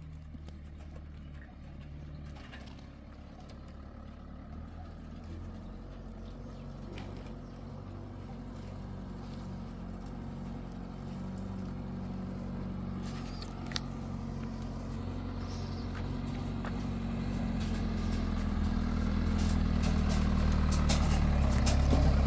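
Motor vehicle engine running steadily at low revs and growing gradually louder as it approaches. A single short knock comes a little past halfway.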